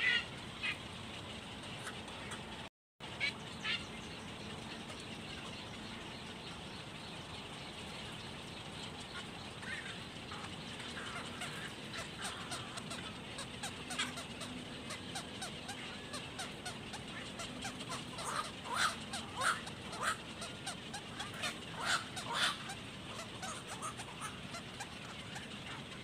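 Bird calls: short calls repeated at irregular intervals, sparse at first and coming thick and fast in the second half. The sound cuts out for a moment about three seconds in.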